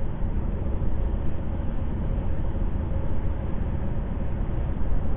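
Steady road and tyre noise with engine drone, heard inside a moving car's cabin at highway speed, deep and even with a faint hum.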